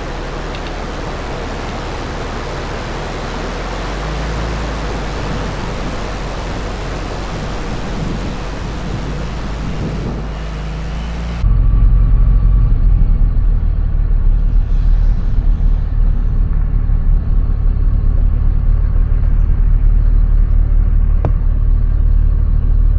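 Truck driving on a dirt road: steady road and tyre noise with a low hum. About halfway through it cuts abruptly to a louder, deeper driving rumble.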